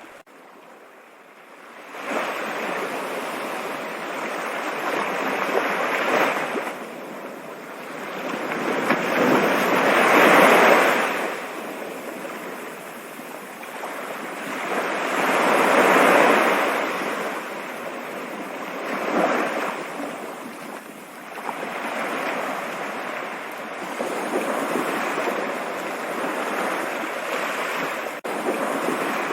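Running water as a steady rushing hiss that swells and ebbs every few seconds, dipping quieter at the start and coming back up about two seconds in.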